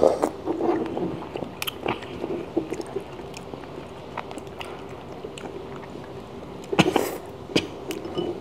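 Close-up chewing and wet mouth sounds of someone eating thick, chewy abalone meat, with scattered small clicks and a louder cluster of sounds about seven seconds in.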